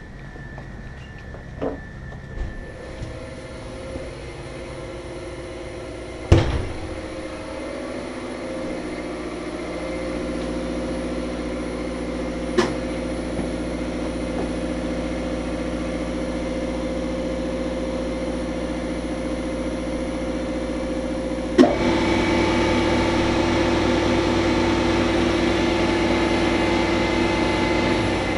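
Motor-driven machinery running steadily with a hum of several held tones. It builds up over the first few seconds and steps louder about three-quarters of the way through, with a few sharp knocks along the way.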